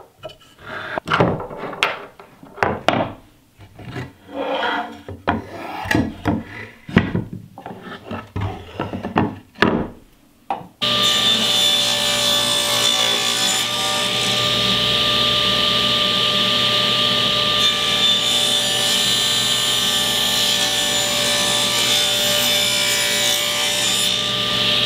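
Hardwood strips knocking and clacking against each other and the bench as they are handled. About 11 seconds in, a table saw is running steadily with a fixed whine as it crosscuts a glued-up panel of hardwood strips on a sled.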